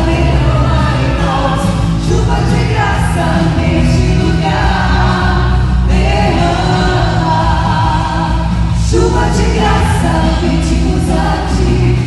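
Congregation and worship band performing a gospel song, group singing over steady instrumental accompaniment.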